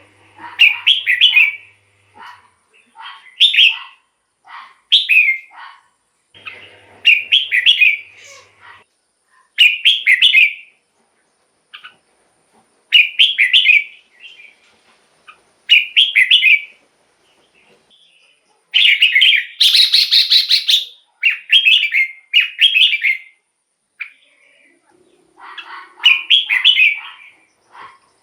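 Red-whiskered bulbul singing short, loud whistled phrases, one roughly every two to three seconds. About nineteen seconds in comes a longer, louder phrase.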